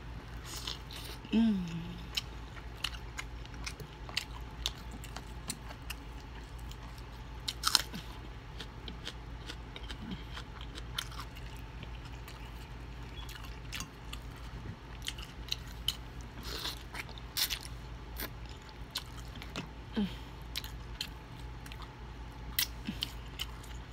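Close-up chewing of crispy fried chicken: crunchy bites and wet mouth sounds, with sharp crunches scattered irregularly throughout. A brief vocal sound from the eater comes about a second and a half in.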